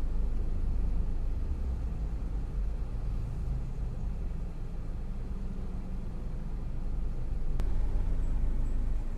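Bangkok BTS Skytrain electric train running, a steady low rumble with one sharp click about three-quarters of the way through.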